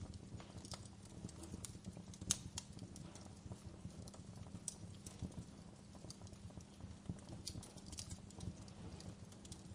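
Wood fire in a fireplace crackling, with irregular sharp pops and snaps, the loudest about two seconds in, over a steady low rumble of the burning.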